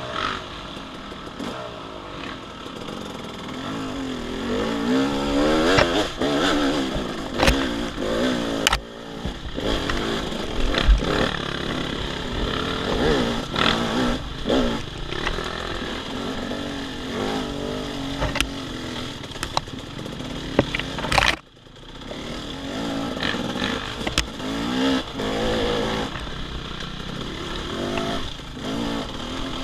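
Dirt bike engine revving up and down as it is ridden over rough trail, with knocks and clatter from the bike over the ground. The sound drops away sharply for a moment about two-thirds of the way through.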